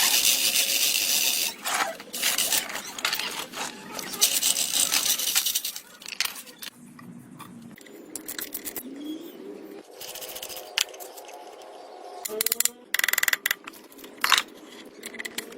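Hand work on metal parts: several loud bursts of scraping or brushing in the first six seconds, then sharp metallic clicks and clinks, some with a brief ring, after about ten seconds.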